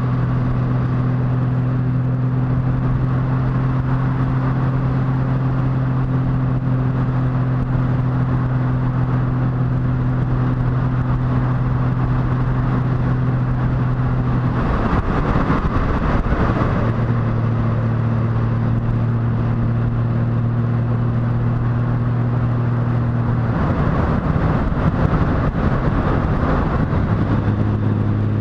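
Motorcycle engine running steadily while riding, with wind rushing past. Twice, about halfway through and again near the end, the engine note changes for a couple of seconds and then settles at a steady, slightly lower pitch.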